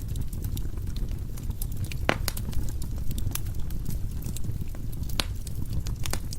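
Wood fire burning in a fireplace: a steady low rumble of flames with frequent small crackles and pops of the burning logs, two sharper pops about two and five seconds in.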